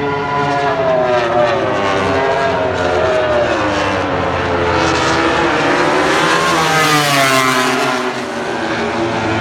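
MotoGP race bike engines at high revs on track, their pitch falling, rising to a loud peak as they pass close about seven seconds in, then falling away.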